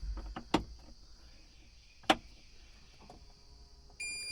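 Two sharp clicks inside a large excavator's cab, about a second and a half apart, then near the end a steady electronic warning beep from the cab's monitor starts up, as comes with the machine being switched on.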